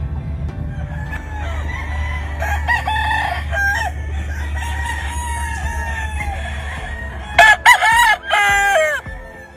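Gamefowl roosters crowing, several birds at different distances, with one loud close crow about seven and a half seconds in. A steady low rumble sits underneath and fades out about seven seconds in.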